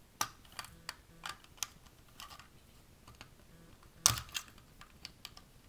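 Light plastic clicks and taps of Lego pieces being handled, with a louder cluster of clicks about four seconds in.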